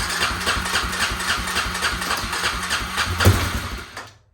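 Suzuki Eiger 400's single-cylinder engine being cranked by its new electric starter with the choke on, turning over in even pulses about four a second, with one heavier thump near the end. It winds down and stops after about four seconds without starting.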